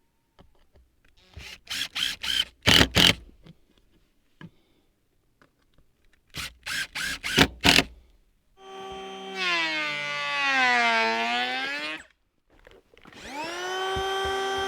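Several sharp knocks on the wood, then a power drill driving screws into siding boards: its motor sags in pitch under load and picks up again, then spins up and runs steadily before stopping.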